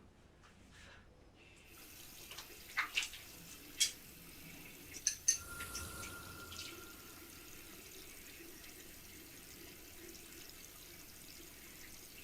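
Running water, with several sharp clicks and knocks in the first half.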